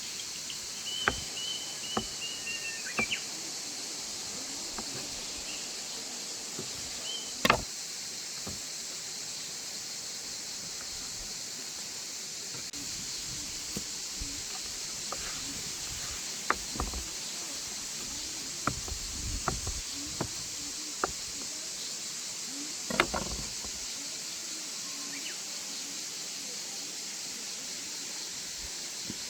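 Outdoor ambience: a steady high-pitched hiss with scattered sharp clicks, a few louder knocks, and a short whistled note near the start.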